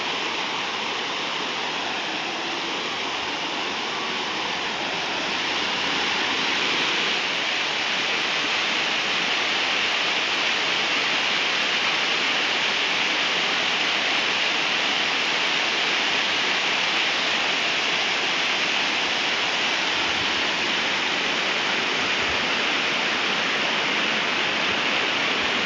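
Waterfall of more than 30 m pouring down onto rocks, a steady loud rush of falling water that grows slightly louder about six seconds in.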